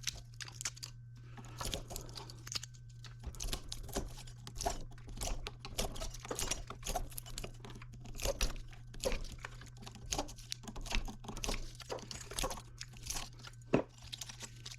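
Scrap from small electric motors being worked by hand: irregular crunching, tearing and clinking strokes in quick succession, over a steady low hum.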